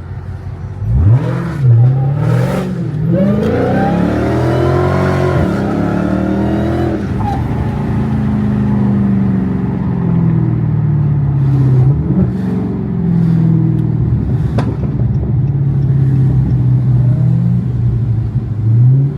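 Car engine revved hard: the pitch shoots up about a second in and rises and falls through several revs, then holds a fairly steady engine speed with small rises and dips, climbing again near the end.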